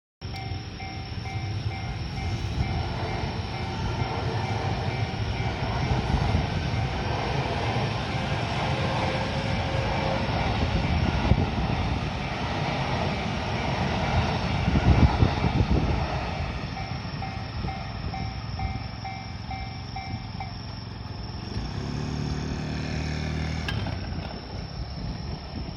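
Electric train on the JR Kyoto Line passing over a level crossing: wheels and rails rumble steadily and grow loudest about halfway through. The crossing's warning bell rings in a steady repeating pattern until about 20 seconds in, then stops, and a low droning tone follows for a couple of seconds near the end.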